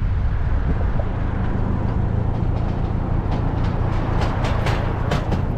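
The MG Midget's small four-cylinder engine running steadily at low revs, with a series of short sharp clicks or crunches about three seconds in.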